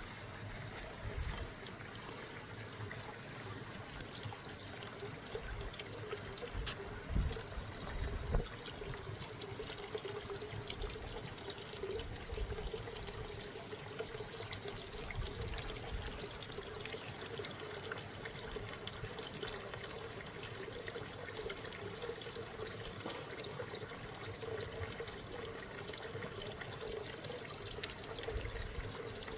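Water trickling and pouring steadily, with a few low bumps about seven to eight seconds in.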